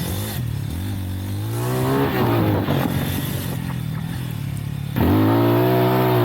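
Lifan Xpect motorcycle engine running under throttle while riding, its pitch dipping and rising with throttle changes. About five seconds in it gets suddenly louder as the rider opens the throttle.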